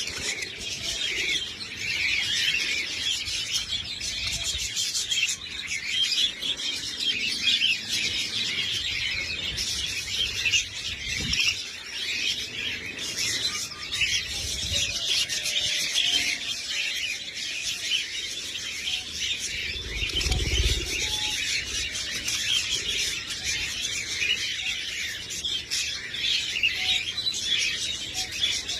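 A flock of budgerigars chattering and chirping continuously in a dense warble, with a couple of low bumps partway through.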